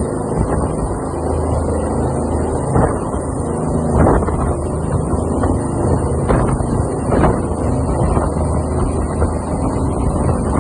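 Rescue helicopter running steadily, its rotor giving a low, evenly pulsing drone under a thin high whine, with wind buffeting the microphone.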